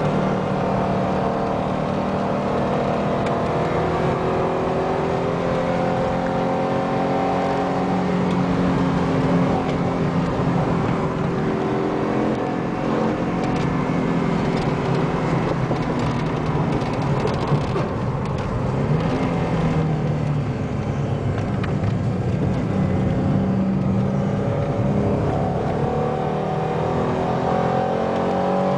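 Alfa Romeo 33 1.7 16v's flat-four engine heard from inside the cabin, driven hard on a race circuit. Its pitch climbs slowly under acceleration, eases off in the middle, and climbs again near the end.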